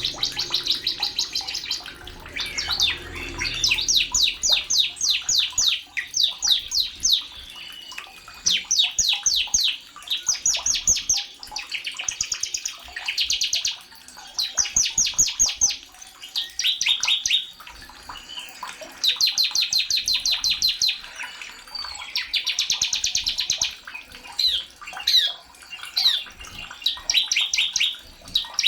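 Sogon bird singing: rapid, high-pitched trills of sharp repeated notes in phrases of a second or two, with short pauses between them.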